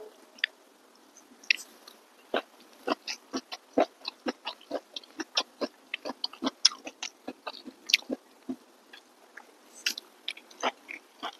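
A person chewing a mouthful of rice and fish curry with lip-smacking: a run of short, sharp smacks, several a second, starting about two seconds in.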